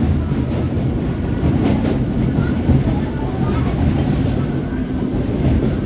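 Subway train running on the rails: a steady low rumble with a few knocks from the wheels and cars.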